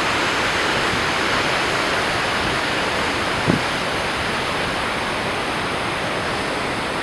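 Goðafoss waterfall: a steady rush of falling water. A brief low bump about halfway through.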